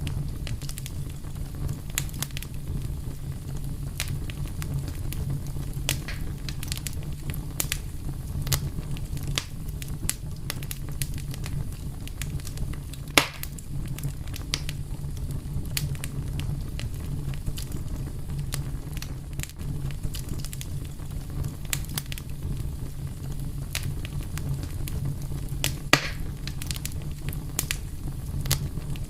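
Wood fire crackling: a steady low rumble of flames with irregular sharp pops and snaps, two louder pops about 13 and 26 seconds in.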